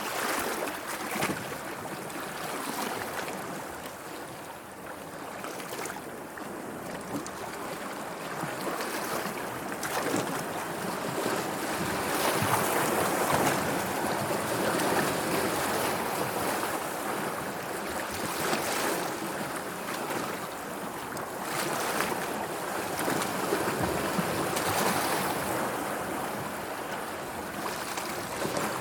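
Sea waves washing and lapping, swelling and easing in slow surges, louder in the middle and again near the end.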